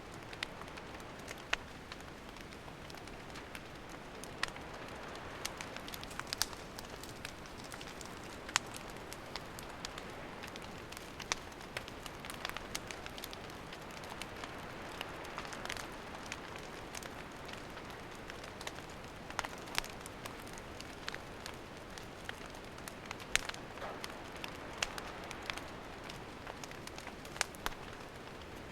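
Wood campfire burning: a steady soft hiss with irregular sharp crackles and pops, a few of them louder.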